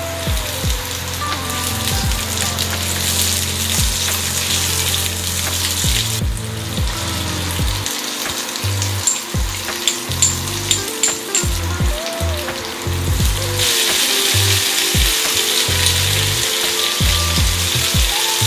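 Chopped vegetables (onion, bell peppers, carrot) sizzling in hot oil in a frying pan, over background music. The sizzle drops away briefly about six seconds in and is louder in the last few seconds.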